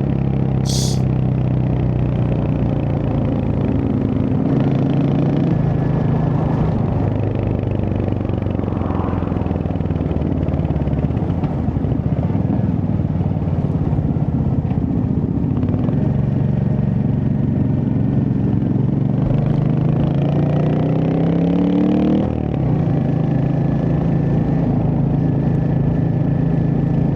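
Royal Enfield Hunter 350's single-cylinder engine running under way on the road. Its pitch sinks as the bike slows in the first few seconds, then climbs steadily as it accelerates, drops suddenly about three quarters of the way through at an upshift, and then holds steady.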